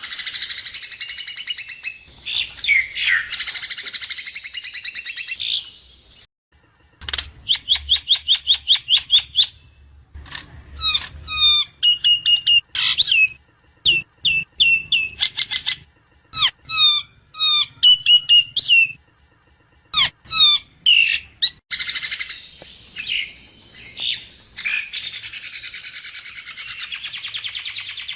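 Javan myna (jalak kebo) singing: a dense, harsh, rasping chatter, a short pause, then a rapid string of about a dozen clicking notes, followed by a run of short whistles and slurred, gliding squeaks, before the harsh chatter returns near the end.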